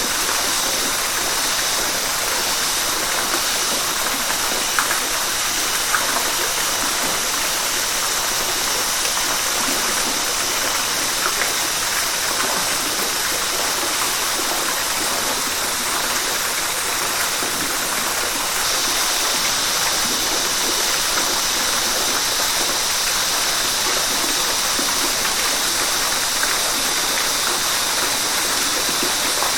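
River water flowing and splashing steadily over rocks, an even rushing hiss with small splashes, turning slightly brighter about two-thirds of the way in.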